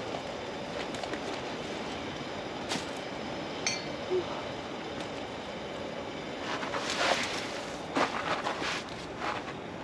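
Steady rush of strong wind, with a few light clinks and a burst of rustling and clattering in the second half as things are handled.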